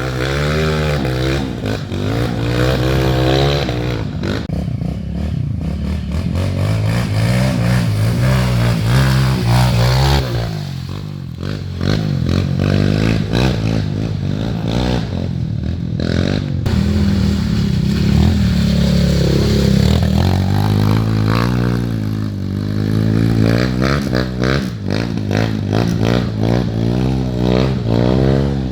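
Trail motorcycle engines running and being revved again and again, the pitch rising and falling.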